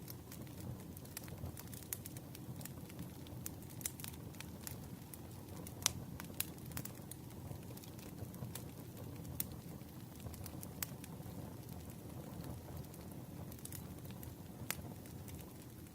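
Campfire crackling: a steady low rumble of burning with irregular sharp pops and snaps.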